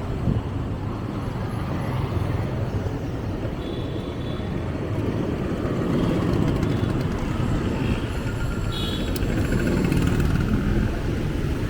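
Street traffic noise: a steady rumble of motor vehicles running on the road.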